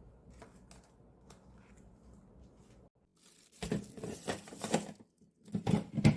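A few faint clicks, then two loud bursts of tearing, crinkling noise, the second shorter than the first.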